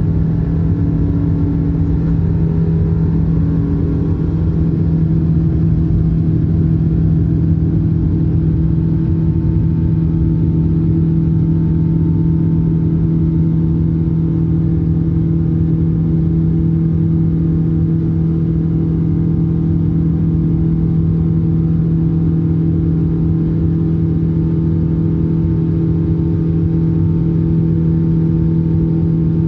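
Steady engine drone of a Boeing 777-200 airliner heard inside the cabin: a constant low hum with an even roar beneath it, not changing in pitch.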